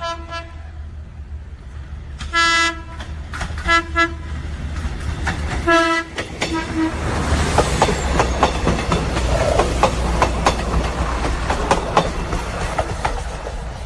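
A Philippine National Railways diesel train sounding its horn in a string of short blasts as it approaches, ending in two quick toots about six and a half seconds in. It then passes close by: a steady low engine rumble and wheels clacking rapidly over the rail joints.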